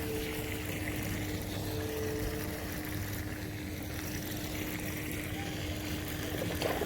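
A steady low mechanical hum with a constant tone, unchanging throughout.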